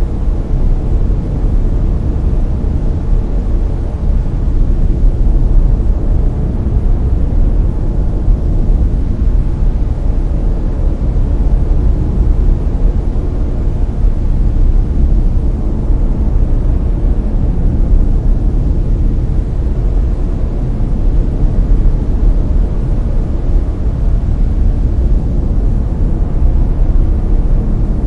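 Layered brown noise: a steady, deep rumbling hiss, loudest in the low end and thinning toward the highs, with no events or changes.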